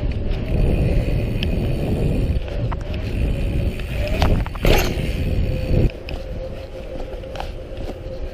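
Dirt jump bike riding at speed, with tyre noise and heavy wind rumble on a chest-mounted camera's microphone and a few small clicks and rattles. A sharp scrape or clatter comes about four and a half seconds in, and the rumble drops off shortly after.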